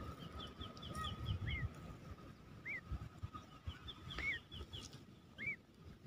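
Small birds chirping faintly: a short rising-and-falling chirp repeated about every second and a half, with two quick runs of high, falling twittering notes, one near the start and one about four seconds in. Low wind and handling rumble lies beneath.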